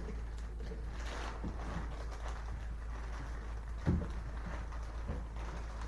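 Soft knocks and light handling noises over a steady low hum, with the loudest knock about four seconds in.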